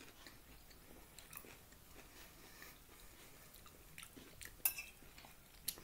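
Faint chewing of a mouthful of chicken fajita filling, with small wet mouth clicks and a couple of sharper clicks near the end.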